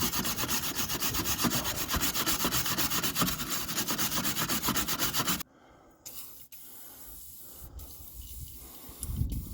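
Hand wire brush scrubbed rapidly back and forth on metal, cutting off suddenly about five and a half seconds in, followed by quieter handling noises.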